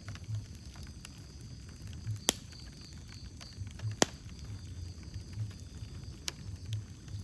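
Wood fire in a fireplace crackling over a low steady rumble, with sharp pops, the loudest about two and four seconds in.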